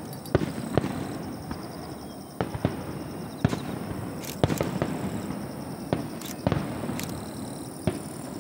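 Fireworks display: aerial shells bursting one after another at irregular intervals, about a dozen sharp bangs of varying loudness over a continuous low rumble and crackle.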